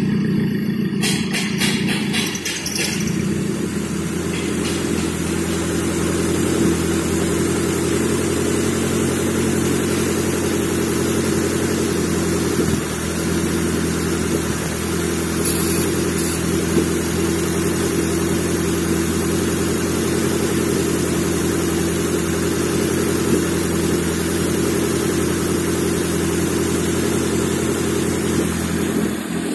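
Nissan SR20 2.0-litre four-cylinder engine running steadily at constant speed, with no revving. A fast clicking rattle sounds over it for the first few seconds.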